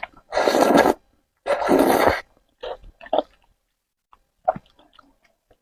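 A person slurping noodles up in two long slurps, followed by short, wet chewing and mouth sounds.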